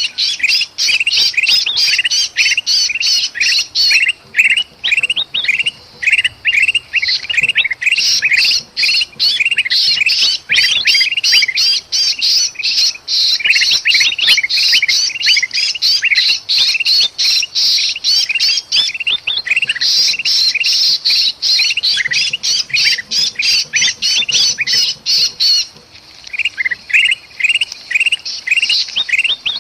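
Kutilang (bulbuls) giving agitated alarm calls mixed with the distress calls of a trapped kutilang: a dense, rapid run of harsh chattering and squawking notes, with brief lulls about twenty and twenty-six seconds in.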